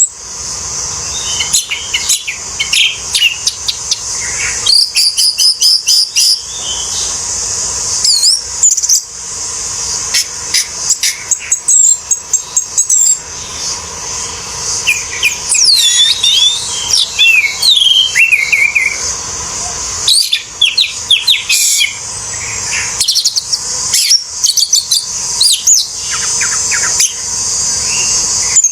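Orange-headed thrush singing a long, varied song of quick whistled phrases, glides and trills, broken by short pauses, over a steady high-pitched hiss.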